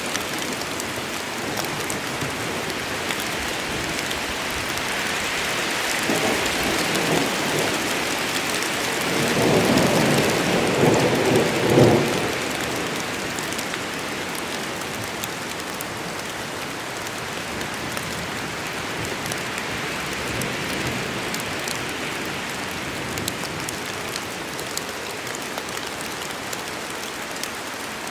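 Steady heavy rain falling in a forest, with a roll of thunder that builds about six seconds in and peaks around twelve seconds before fading back into the rain.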